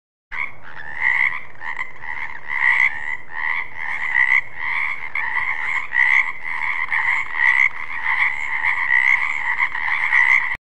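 Frogs croaking, a dense run of overlapping calls at about one and a half a second, starting suddenly.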